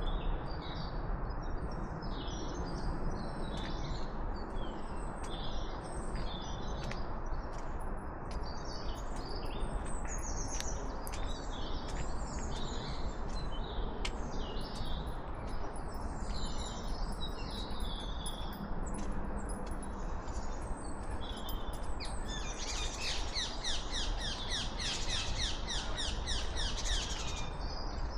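Several songbirds singing and calling over a steady background hiss. Near the end comes a fast run of rapidly repeated notes.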